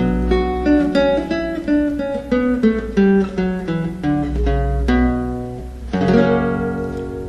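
Acoustic guitar played solo: a picked melody of single notes, then a chord about six seconds in that is left to ring and fade.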